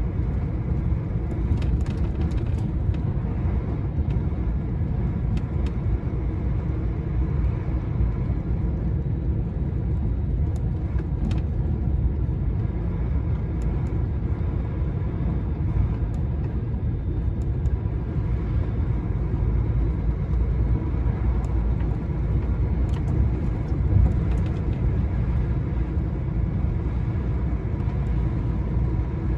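Heavy goods lorry driving steadily at road speed, heard from inside the cab: a constant low rumble of engine and tyres on the road, with a few faint ticks and a small knock about three-quarters of the way through.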